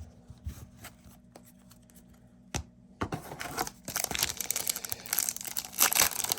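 A few light clicks of cards being handled and a single knock about two and a half seconds in, then a trading card pack wrapper being torn open, with dense crinkling and tearing that grows louder toward the end.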